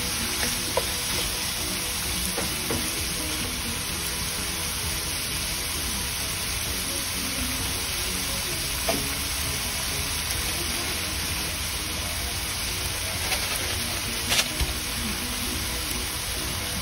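Chicken breast pieces sizzling steadily as they fry in oil in a wok, with a few clicks of the wooden spoon against the pan, the loudest about fourteen seconds in.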